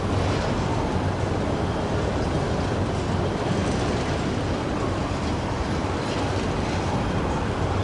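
Freight train of autorack cars rolling past at steady speed, with continuous wheel-on-rail noise.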